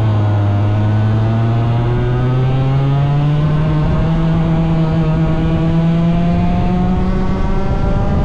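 A small 100cc racing engine running hard, its pitch climbing slowly and steadily as the machine picks up speed.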